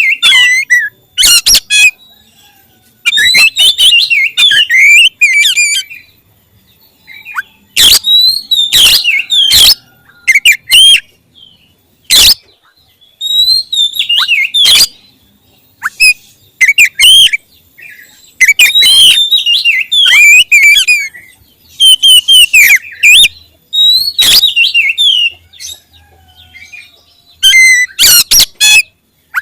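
Oriental magpie-robin (kacer) singing loudly in bursts with short pauses, mixing sweeping whistled notes with sharp clicking notes.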